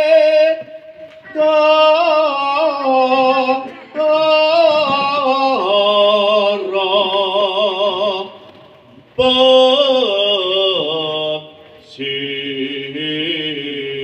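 Unaccompanied Javanese tembang: a solo voice sings slow phrases of long, wavering, ornamented notes, with short pauses for breath between them.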